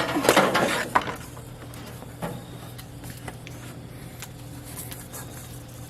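Metal grill parts clattering and clinking as they are handled and set into the grill body, busiest in the first second, then a few single light clicks.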